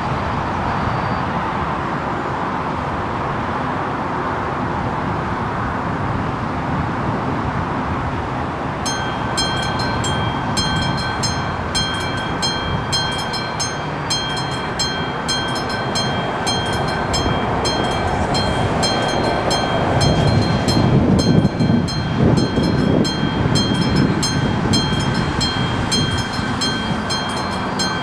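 Level crossing's mechanical warning bell (AŽD 71 crossing with a classic bell) starts ringing about a third of the way in, about three strikes a second, over the steady rumble of a train. The low rumble grows louder past the halfway point.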